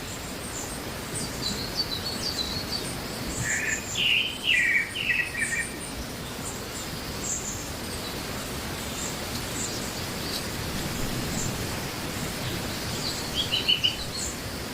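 Small birds chirping in short runs of quick, high notes, loudest about four seconds in and again near the end, with scattered faint chirps between, over a steady background hiss.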